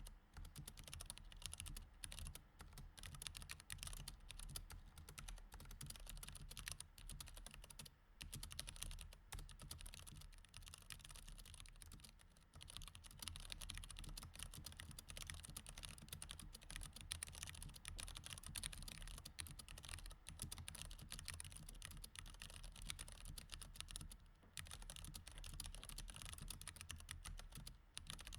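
Continuous typing on a mechanical keyboard with Cherry MX Red switches: a quiet, fast, irregular stream of key clicks with a few brief pauses.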